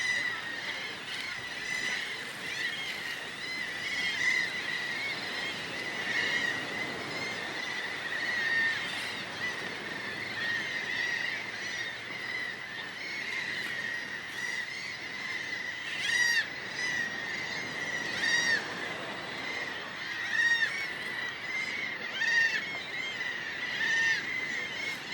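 A large flock of birds calling without pause, many short calls overlapping into one continuous din, with a few louder calls standing out here and there.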